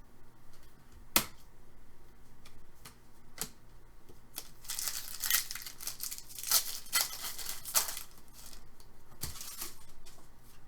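Foil wrapper of a trading-card pack torn open and crinkled, with rustling from about halfway through and a few sharp clicks of cards being handled.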